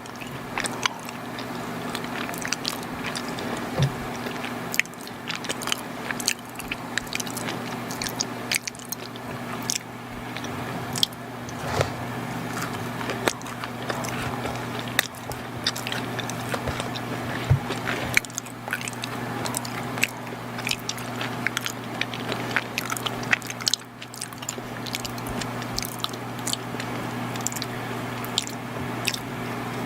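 Close-miked chewing of soft, chewy chocolate crinkle cookies and brownies, with many irregular small sticky mouth clicks. A steady low hum runs underneath.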